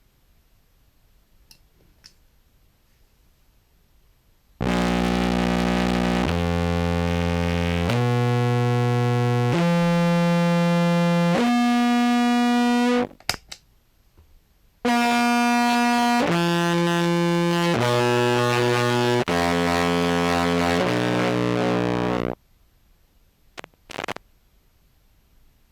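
Contrabass clarinet played through a Horizont effect into a Jackson Audio modular fuzz (Goat's Head module), giving a thick, distorted, buzzy tone. After a few seconds of quiet, held notes of about a second and a half each climb in steps. After a short break, a second run of held notes steps back down.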